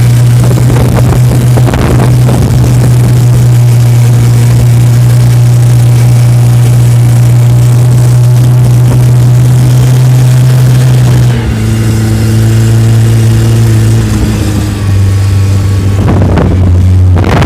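Off-road vehicle's engine running steadily, very loud and distorted on the recording. The engine note drops lower about eleven seconds in and again near the end.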